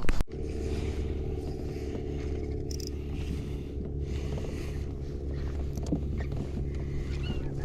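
Boat motor running at a steady speed with a low, even hum, starting just after a sharp click right at the start.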